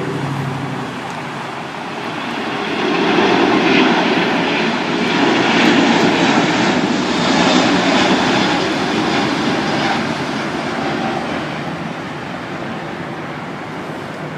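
Large jet airliner taking off, its engines' rushing roar swelling over the first few seconds, loudest in the middle, then slowly fading as it climbs away.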